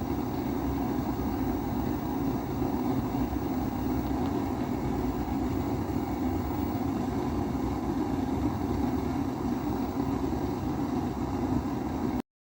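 Kerosene pressure stove (Primus-type burner) burning with a steady, even rushing sound.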